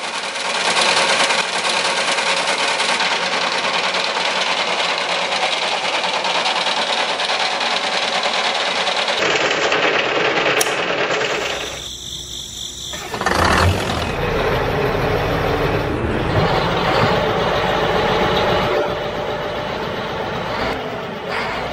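A motor or engine running steadily, with several abrupt cuts where the sound changes, and a deeper rumble in the later part.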